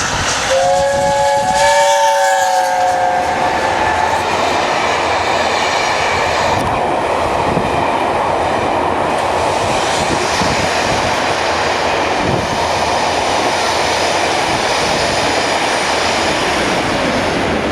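A train horn sounds a chord of several notes for about three seconds, then the steady running noise of a train carries on.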